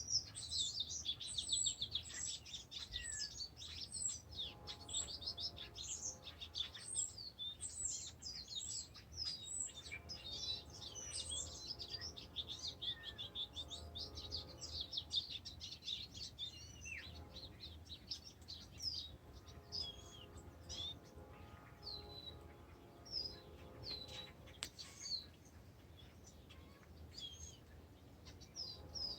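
Several birds chirping and singing at once, quick high overlapping notes and trills, busy for the first half and thinning to scattered single chirps later. A faint steady low hum lies underneath.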